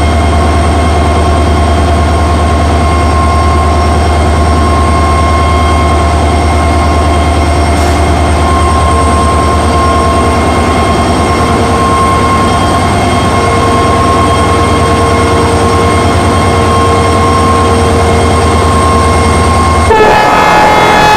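EMD WDP4D diesel locomotive's two-stroke V16 running at idle: a steady, loud low hum with a constant whine of several steady tones above it. About 20 seconds in the sound changes suddenly, the low hum dropping away and new higher tones coming in.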